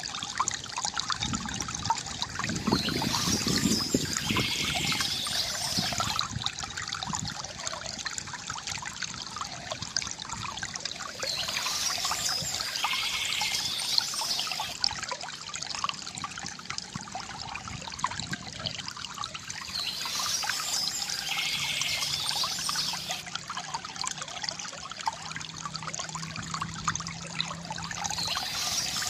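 Small stream trickling and splashing steadily, with a bird's song recurring about every nine seconds over the water.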